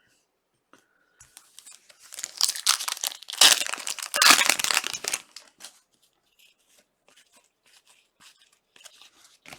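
Wrapper of a Panini soccer trading card pack being torn open and crinkled, loudest for a few seconds in the middle, then only faint light ticks.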